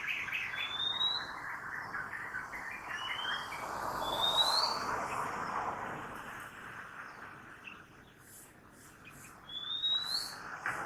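Birds singing: a quick run of chirps at the start, then short rising whistles every few seconds, over the hiss of city traffic that swells about four seconds in and fades.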